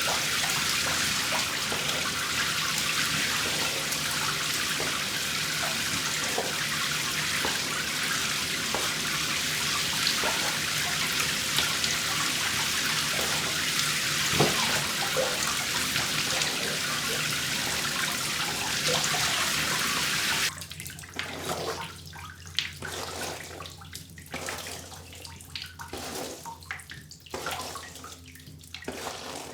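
Tap water running steadily while a doll's hair is washed under it, shut off abruptly about two-thirds of the way through. After that, scattered soft clicks and drips.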